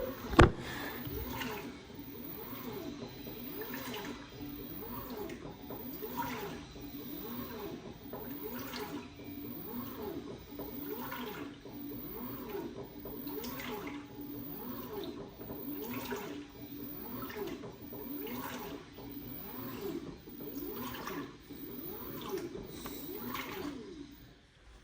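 LG WT16WV6 top-loading washing machine agitating a load of towels in water: rhythmic sloshing as the drum swings back and forth, a swash about every 1.2 seconds, on a gentle wash without the turbo agitation. The agitation stops just before the end.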